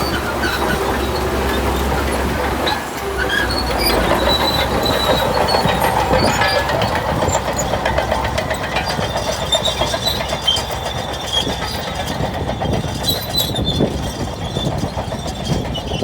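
Shantui bulldozer working, its diesel engine running under a dense rattle of clanking steel tracks with high squeals coming and going.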